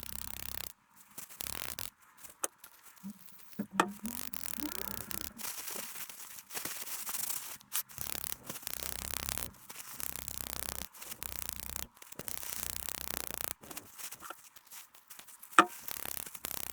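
Intermittent rubbing and scrubbing as parts of an SST transmission mechatronics unit are cleaned, in stretches of hissy noise with short pauses. There is a sharp clink about four seconds in and a louder one near the end.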